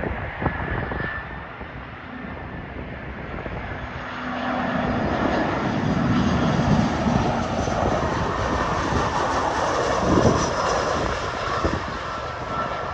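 Airliner engines passing by on a runway, growing louder about four seconds in, loudest around ten seconds, then easing off.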